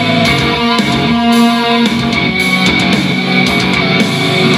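Rock music with electric guitar played loudly through a Sony LF-S50G and a Google Home smart speaker at once, the same track on both.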